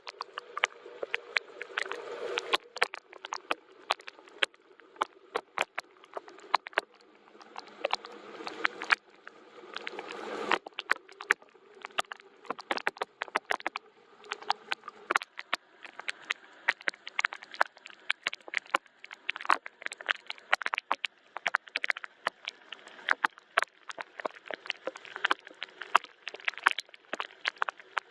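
Rain falling: many irregular, sharp drop impacts and drips over a soft steady hiss.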